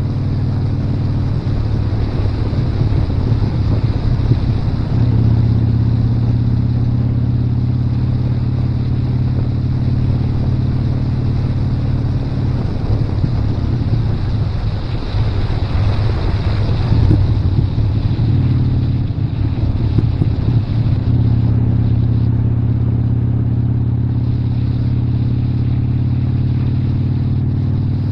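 Motorcycle engine running steadily at road speed, its note shifting a few times as the throttle or gear changes. Wind rushes over the microphone for several seconds around the middle.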